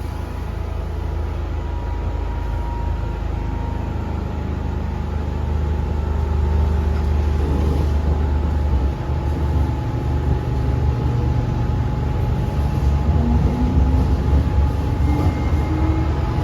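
MTR M-train electric multiple unit heard from on board, pulling away from a station: a steady low rumble of wheels on rail and a motor hum that grow louder as it picks up speed, with a tone rising gently in pitch near the end.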